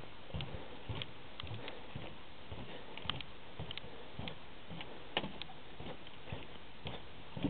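Footsteps on a wooden boardwalk: irregular knocks from the boards underfoot, roughly one or two a second, over a steady hiss.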